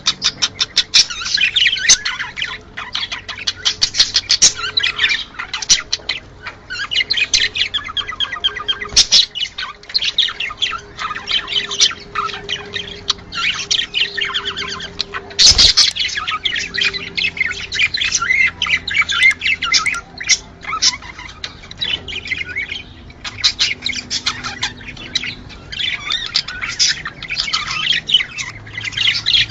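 A flock of budgerigars chattering and warbling, with dense, rapid chirps and squawks overlapping throughout. One sharp click cuts through about halfway through.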